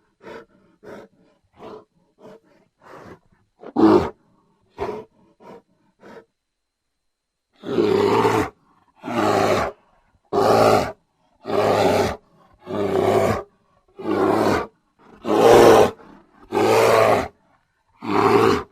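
A large animal calling: a few short grunt-like calls in the first six seconds, then, after a pause, a steady series of about nine long loud calls, roughly one every second and a bit.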